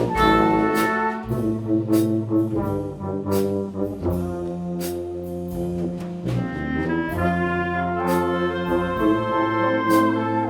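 Live school band playing, with trombones and trumpets carrying held chords and melody over percussion hits about twice a second.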